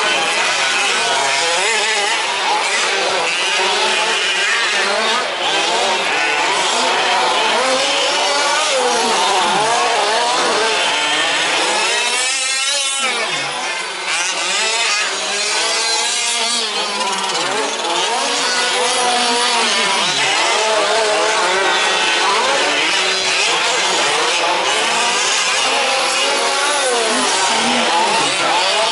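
Several 1/5-scale petrol two-stroke RC truck engines racing, their buzzing pitch constantly rising and falling as the trucks throttle up and back off. About halfway through, one truck revs hard close by, its whine sweeping up and down.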